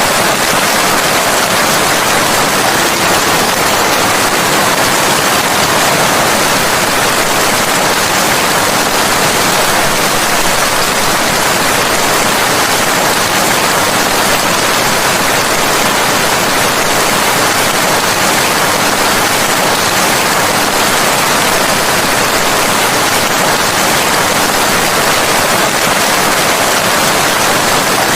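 Steady, even rain, a dense hiss without breaks or single drops standing out.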